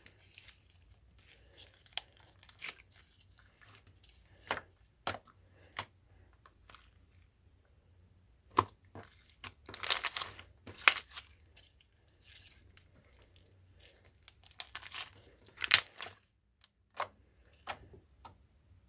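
Irregular crinkling and tearing crackles from something being handled close to the microphone, with the loudest clusters of snaps about ten seconds in and again near sixteen seconds.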